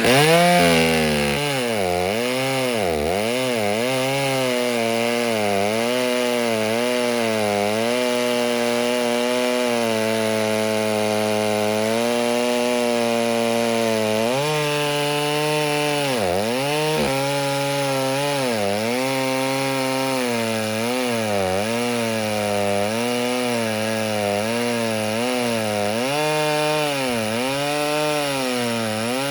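Ported Stihl 08S two-stroke chainsaw with a stock muffler cutting wood under full throttle. Its engine pitch repeatedly sags and recovers as the chain bites in the cut, with one deeper drop a little past halfway.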